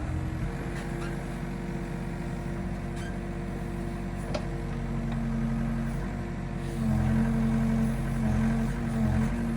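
Excavator's diesel engine running steadily, then working harder and louder from about seven seconds in, with a few faint clicks.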